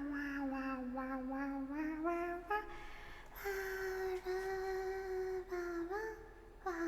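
A young woman's voice making long, wordless sing-song vocal noises: drawn-out held notes that drift and step in pitch, with a short break about three seconds in and a quick upward slide near the end.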